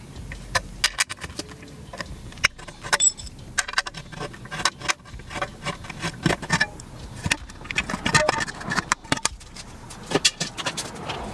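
Metal hand tools clinking and rattling, with irregular sharp clicks and knocks, as 13 mm bolts holding the motorcycle exhaust are undone.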